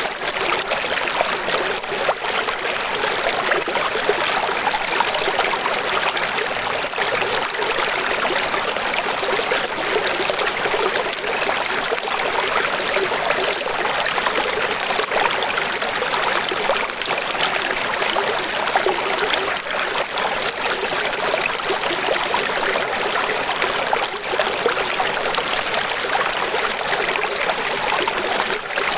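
Running water, a steady rush and splash with no let-up.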